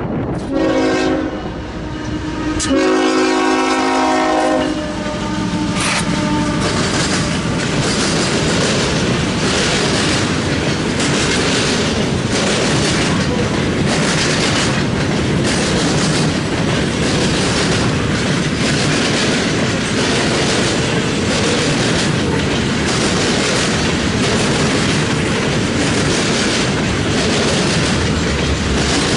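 A CSX freight locomotive's multi-chime air horn sounds two blasts, a short one and then a longer one, as the train approaches. The freight train then rolls past with a steady rumble and a regular clickety-clack of wheels over the rail joints and diamond crossing.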